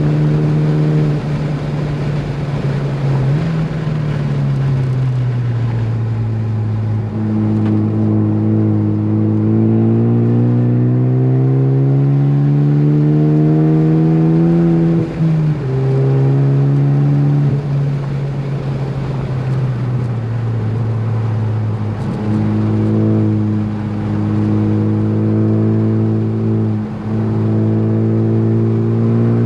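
Ford Focus ST's turbocharged four-cylinder engine working hard on track. The pitch drops once early on, then climbs steadily for several seconds under acceleration. It falls sharply at a gear change about halfway through, then holds fairly steady with two brief dips near the end.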